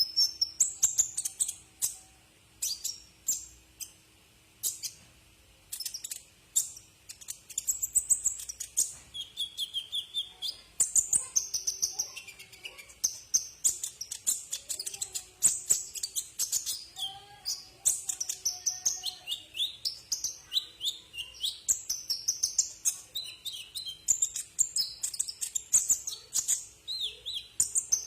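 Sunbird (the 'kolibri ninja' of Indonesian bird-keeping) singing: a continuous run of rapid, high-pitched chirps and short trills.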